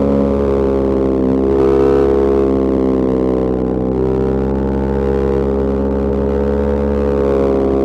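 Ducati Monster 1200S's L-twin engine and exhaust under way at fairly steady revs. The pitch sags slightly in the middle and rises again near the end. Recorded raw on a wireless clip-on mic with the low-cut filter on.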